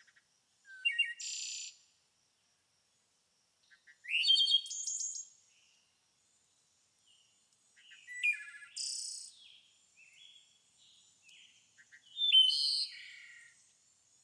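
Songbirds singing: four short bursts of high chirps and trills a few seconds apart.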